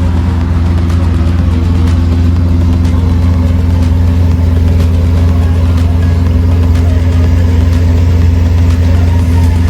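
Supercar engine running at steady revs, a loud, even drone with no rise or fall in pitch.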